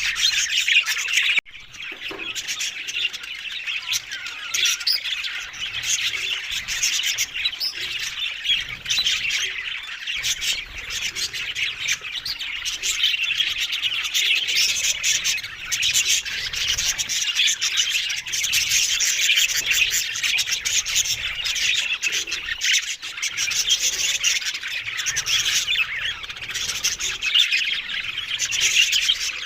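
Budgerigars chattering: many overlapping chirps and squawks, continuous, with a brief dip about a second and a half in.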